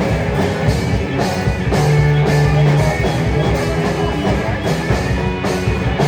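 A rock band playing live: distorted electric guitar over bass and drum kit, with long held bass notes.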